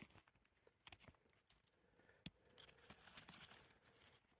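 Near silence, with a few faint short clicks and crackles, the clearest about a second in and just past two seconds.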